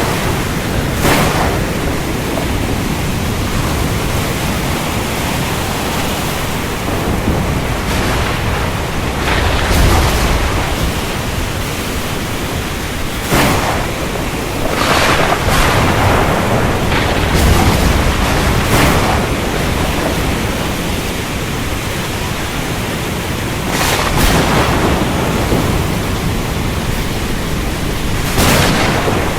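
Thunderstorm: steady heavy rain with thunder, sharp cracks breaking through several times and low rolling rumbles swelling about a third of the way in and again past the middle.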